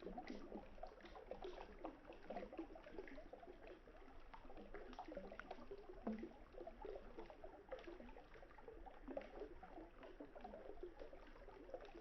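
Quiet river water babbling and gurgling steadily, with a wood campfire giving occasional sharp crackles every few seconds.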